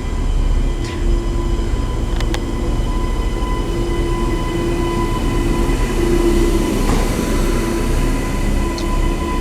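Queensland Rail NGR electric multiple unit pulling out of the station: a steady rumble of the train with a held electric whine from its traction equipment, and a couple of faint clicks in the first few seconds.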